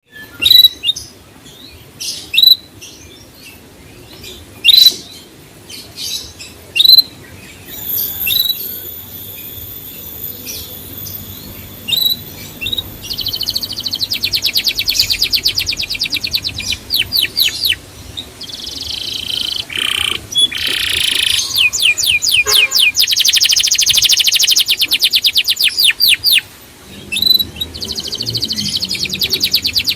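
Small songbirds: loud, sharp single chirps every second or two at first, then from about halfway a fast, high trilling song of rapidly repeated notes, breaking off briefly near the end.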